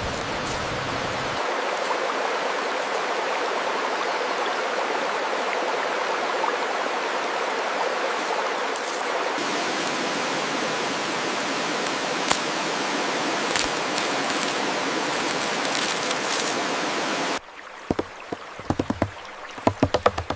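Steady rushing of running water, like a stream. It cuts off abruptly near the end, and a quieter run of sharp, irregular taps follows.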